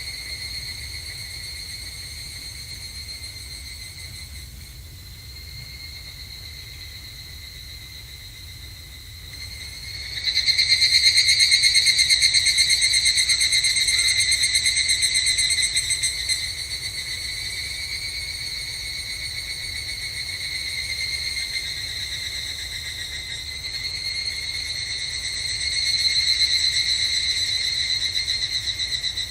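Higurashi (evening cicadas) calling in rapid pulsing trills. A close one starts up loud about ten seconds in and trails off over several seconds, and another swells up near the end, with fainter ones calling beneath throughout.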